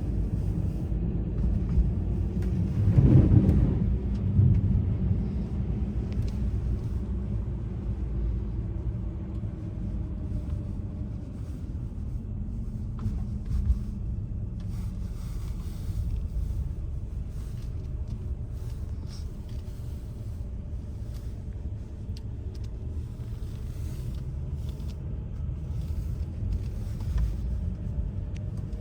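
Low, steady vehicle rumble, swelling louder about three seconds in, with scattered light clicks later on.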